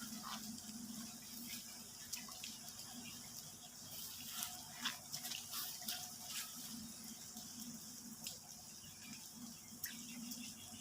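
Rain falling steadily, a soft hiss with scattered drips and splashes.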